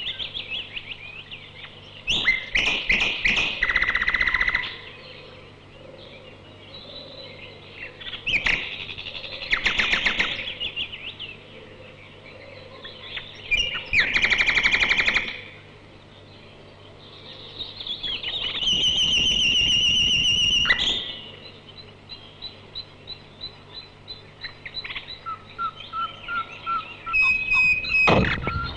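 Songbird chirping and singing in several bursts a few seconds long, with quieter gaps between them and a run of quick, evenly spaced chirps toward the end.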